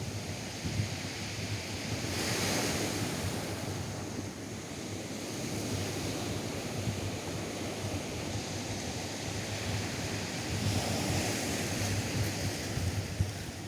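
Atlantic surf breaking and washing up a sandy beach, two waves swelling, one about two seconds in and one near the end, with wind buffeting the microphone as a low rumble.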